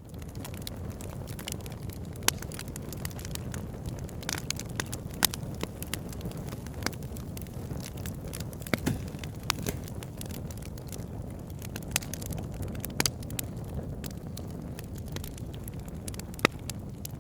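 Campfire crackling, with irregular sharp pops of burning wood over a steady low rumble.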